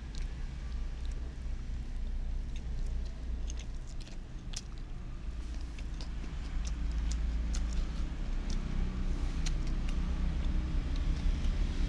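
Close-up eating sounds: chewing with scattered wet mouth clicks, over a steady low rumble that grows a little louder about halfway through.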